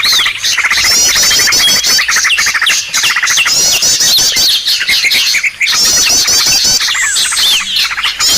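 Bird-lure recording of small songbirds calling thickly over one another: rows of fast, repeated rising chirps high up, rattling trills lower down and short falling whistles, loud and without a break.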